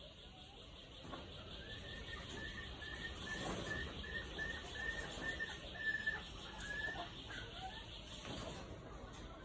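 A bird chirping a steady run of short, high, evenly spaced notes, about two or three a second, stopping a couple of seconds before the end. A faint steady high buzz runs underneath.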